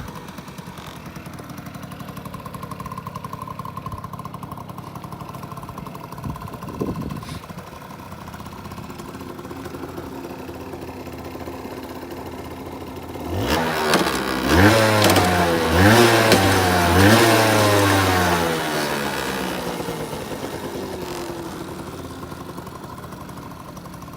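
Yamaha Mate V50's small two-stroke engine idling, then revved in four or five quick throttle blips about halfway through, each rising and falling in pitch, before settling back to a steady idle.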